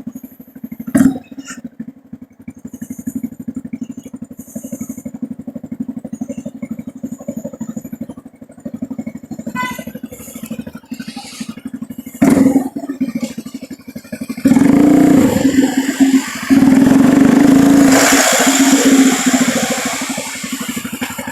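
A vehicle engine running with rapid, even firing pulses and a sharp knock about a second in. From about two-thirds of the way through it gets much louder for several seconds, with a rushing noise over it, then eases off near the end.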